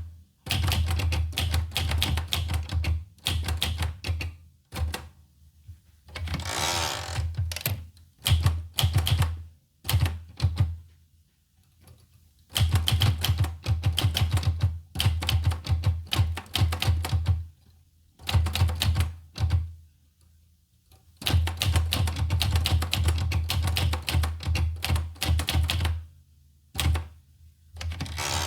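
Olivetti Lettera 25 portable manual typewriter being typed on: runs of rapid key strikes broken by short pauses, with one longer continuous noise about six seconds in.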